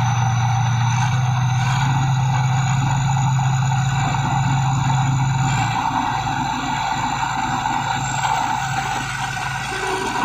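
Engine of a Thai Seng 'Chao Phayu 4.0' rice combine harvester running steadily, with a thin high whine that rises slowly. A little before halfway through, its deep hum drops away.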